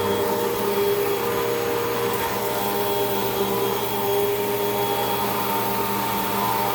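Hoover WindTunnel 2 Rewind upright vacuum cleaner running steadily over carpet, its motor giving a constant hum under a steady rush of air.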